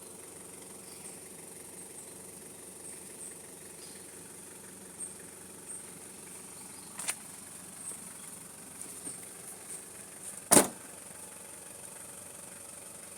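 Car engine idling steadily, with a few sharp clicks and knocks; the loudest knock comes about ten and a half seconds in.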